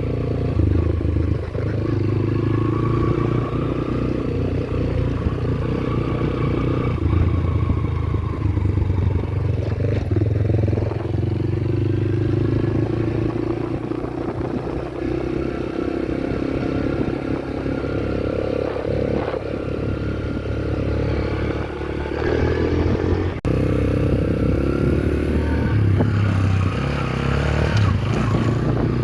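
Yamaha YBR125G's single-cylinder four-stroke engine running under way, its pitch rising and falling as the bike rides, with an abrupt cut in the sound about three-quarters of the way through.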